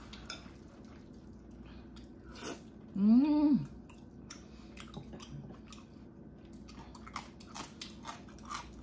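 Close-up eating sounds of jjajangmyeon black bean noodles: chewing with many small wet mouth clicks and smacks. A brief hummed voice sound, rising then falling, comes about three seconds in.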